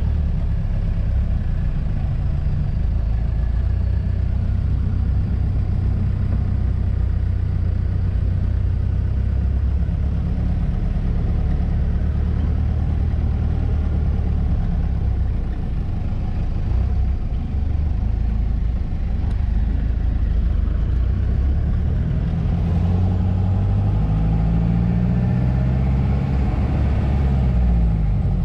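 Off-road 4x4's engine running under load, heard from inside the cab as it drives along a dirt track. The engine speed rises and falls several times in the last few seconds.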